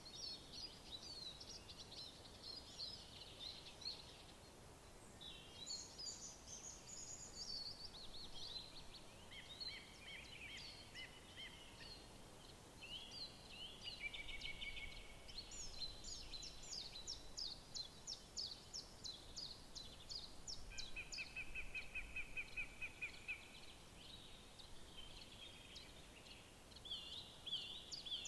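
Several songbirds singing at once in woodland, with overlapping songs, rapid runs of repeated notes and a fast trill, over a faint, steady background noise.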